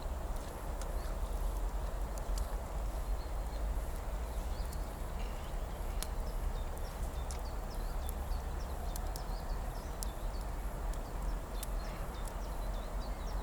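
Outdoor ambience: a steady low rumble with scattered faint clicks and small high chirps.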